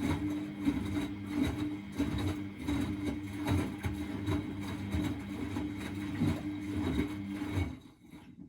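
Miele Novotronic W921 washing machine turning its drum during the wash: a steady motor hum with irregular low thuds from the tumbling load. It stops about a second before the end, as the drum pauses.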